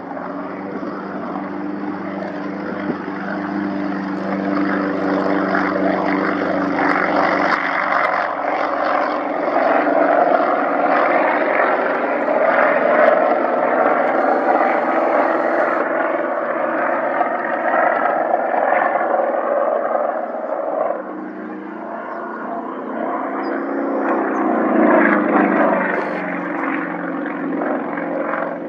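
Aircraft engine running as a plane flies past, a steady engine tone over a rushing noise that swells and then drops in pitch near the end.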